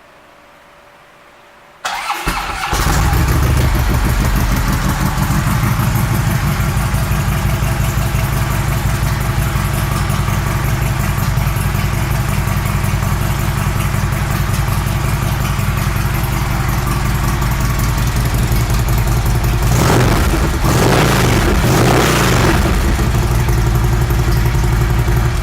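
Harley-Davidson Twin Cam 110 V-twin with Rinehart aftermarket exhaust. It is started about two seconds in, then idles loudly and steadily, and is revved a couple of times near the end.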